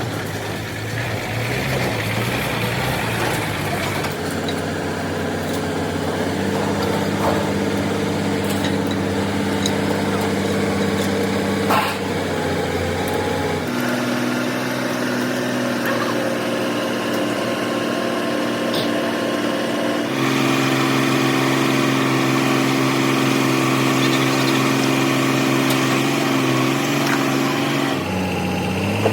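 An engine or motor running steadily with a hum of steady tones. Its pitch jumps abruptly to a new steady level several times.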